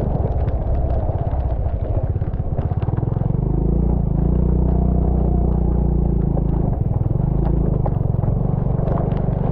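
A road vehicle's engine running under way, with scattered clicks and rattles. The engine beats slowly and unevenly for the first few seconds, then runs steadily.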